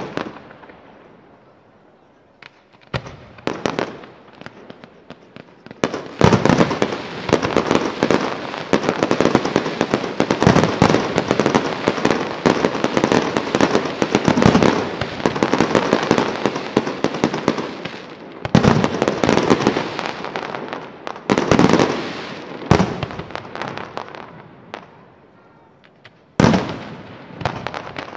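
Aerial fireworks display: a few separate bangs, then a dense run of rapid bangs lasting about twelve seconds, then single heavy bursts a second or two apart, each trailing off.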